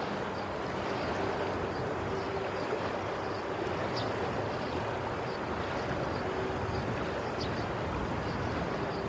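Sea waves washing steadily, with a faint low hum underneath.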